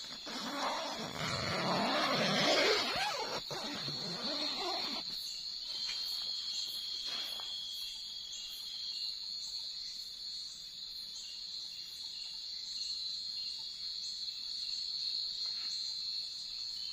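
A night insect chorus, crickets and similar insects, holds a steady high-pitched trill with a fainter chirp repeating about once a second. For the first five seconds a louder rustling noise, like movement or handling close by, sits over it.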